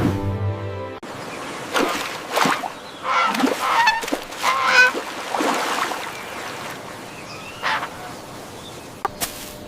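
Music cuts off about a second in, then geese honk in a run of separate calls, with one more call a few seconds later.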